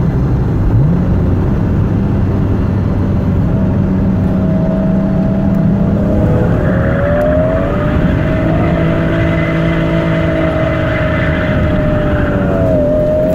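BMW E46 M3's straight-six engine heard from inside the cabin, rising in revs about a second in and then held high through a drift. From about six seconds in the tyres squeal for roughly six seconds before easing off near the end.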